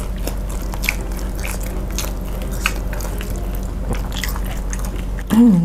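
Close-miked chewing of crispy chili-coated fried chicken: wet mouth clicks and small crunches over a steady low hum. A brief voiced sound near the end is the loudest moment.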